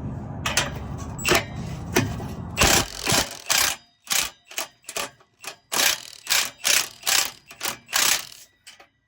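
A string of short, sharp knocks on the truck's stuck exhaust pipe as it is worked loose, coming irregularly at roughly two a second. A low steady rumble under the first few knocks cuts off suddenly.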